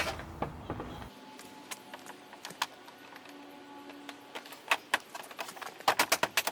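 Scattered clicks and knocks of a plastic interior trim panel being handled and lined up with its retaining clips, then a quick run of sharp taps near the end.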